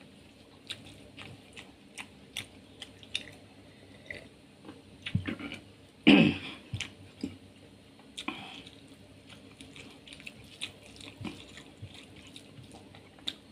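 Close-up eating sounds: wet chewing and lip smacks as a man eats rice, curry and dal with his hand, with fingers squishing rice on the plate. Many short wet clicks throughout, and one louder wet sound about six seconds in.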